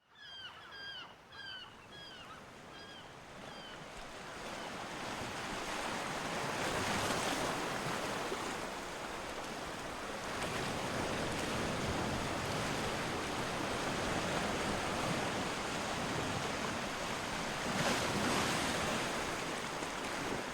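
Sea waves washing onto a shore, swelling and falling back in slow surges. A small bird chirps several times in the first few seconds.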